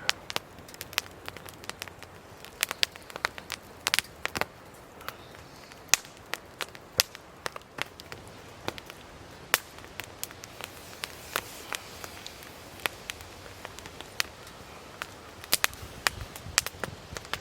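Burning firewood crackling in a fire pit, with sharp irregular pops, some loud and some faint.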